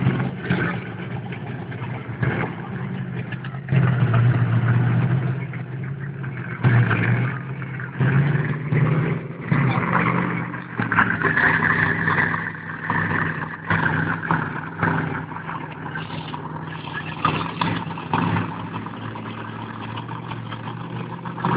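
Monster truck engine running with a steady low drone and revving up in repeated surges, recorded on a phone.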